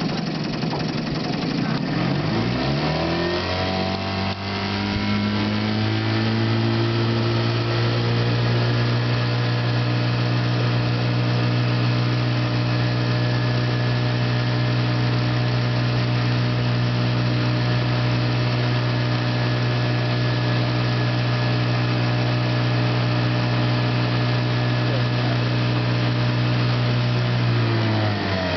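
1953 Johnson TN-28 5 hp outboard motor, a two-cylinder two-stroke, running. It speeds up over the first few seconds, holds a steady pitch, and slows again near the end.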